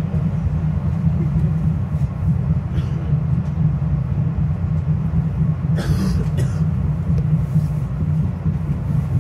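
Steady low rumble of a Metro-North commuter train in motion, heard from inside the passenger car: wheels running on the rails. There is a brief rattle or clack about six seconds in.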